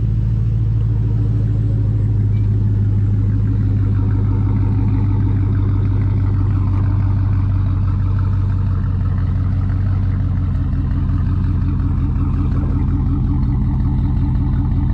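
A Chevrolet TrailBlazer SS's stock 6.0-litre LS2 V8 idling steadily.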